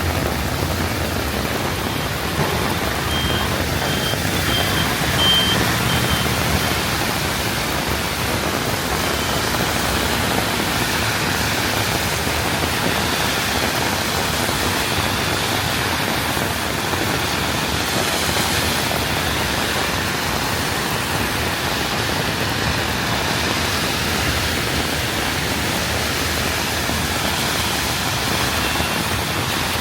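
Heavy rain pouring down steadily in a city street. About three seconds in, a short series of high, evenly spaced beeps sounds, five or six in a row.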